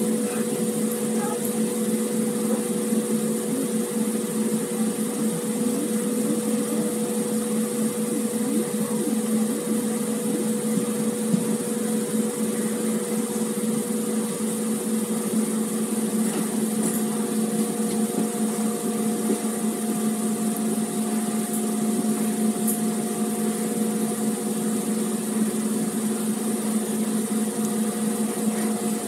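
Running noise of a passenger train moving at speed, heard from aboard a coach: a steady rush with an even, multi-tone hum, a higher hum tone joining about two-thirds of the way through.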